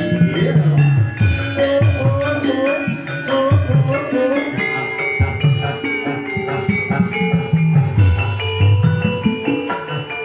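Live ebeg dance accompaniment: Javanese ensemble music with hand drums whose low strokes bend in pitch, under a steady run of struck, ringing metal-keyed notes.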